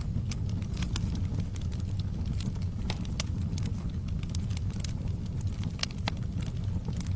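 Log fire burning: irregular crackles and sharp pops over a steady low rumble of the flames.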